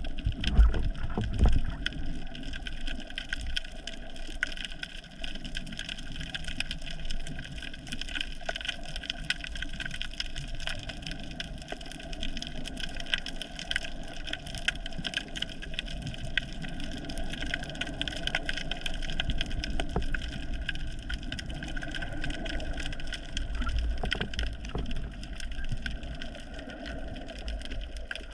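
Underwater ambience on a dive: a dense, steady crackle of tiny clicks from the seabed. A few low thumps come in the first couple of seconds.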